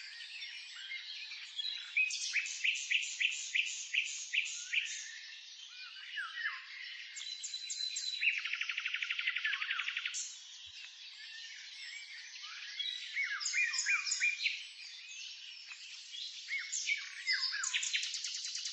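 Songbirds singing: runs of sharp repeated chirps, a fast even trill about eight seconds in, and another trill starting near the end.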